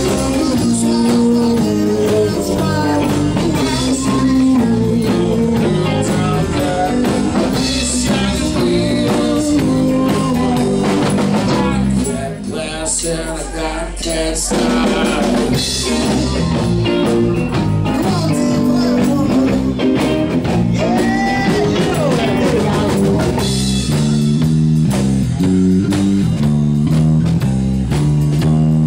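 A live band playing a blues-rock tune with electric guitar, bass and drums. The band drops back briefly about twelve seconds in, leaving mostly the bass, then comes back in, with bending guitar lines later on.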